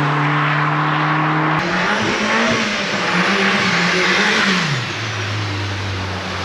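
Car engine running while driving. Its note holds steady, jumps to a higher wavering note after an abrupt cut about one and a half seconds in, then drops lower about five seconds in as the revs fall.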